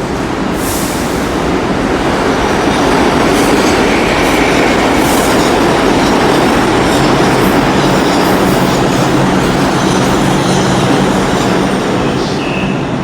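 Subway train running loudly through the station, a steady heavy roar with brief high wheel squeals. It builds over the first few seconds and eases slightly near the end.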